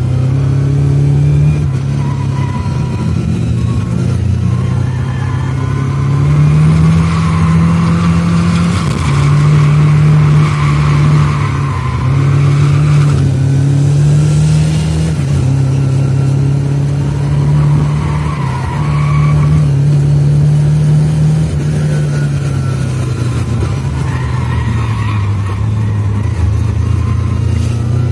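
Lada 2107 with a 2000 cc Fiat four-cylinder engine, heard from inside the car while driven hard around a track: the engine note climbs and drops again and again as it accelerates, shifts gear and slows for corners.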